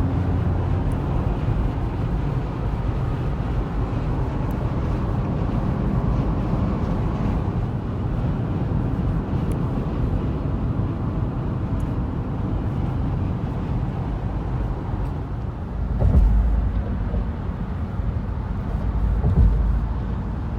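Steady road and engine noise of a car driving on the highway, with two brief louder low rumbles near the end.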